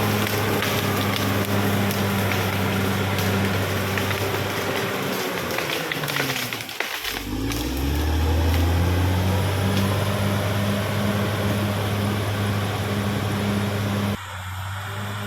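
Caterpillar D6R XL bulldozer's diesel engine running steadily under load, with clanking from the tracks. About six seconds in, the engine note falls and then climbs back up. Near the end the sound drops suddenly to a lower level.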